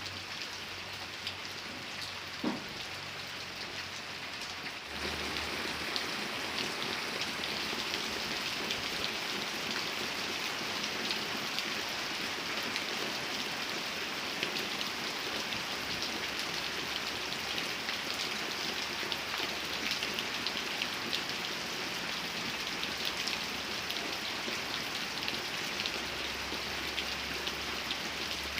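Steady rain falling and pattering on surfaces, turning suddenly louder about five seconds in. A single short sound is heard about two and a half seconds in.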